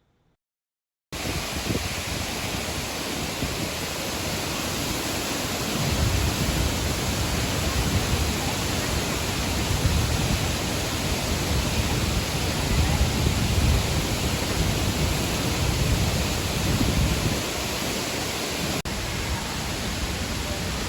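A 110-foot waterfall pouring steadily, cutting in suddenly about a second in as a dense, even rush. A heavier low rumble swells under it through the middle for about ten seconds.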